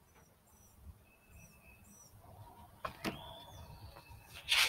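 Faint birdsong: short chirps and thin whistled notes from backyard birds. A couple of sharp clicks come about three seconds in, and a brief rustle near the end is the loudest sound.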